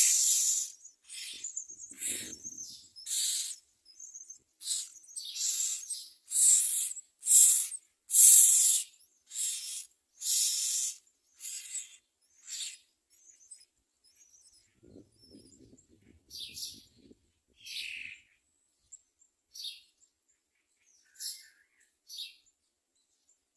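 Common myna nestlings begging: a run of short, raspy, hissy calls about one a second, loud at first and growing fainter and sparser in the second half. A soft low rustle comes in about midway.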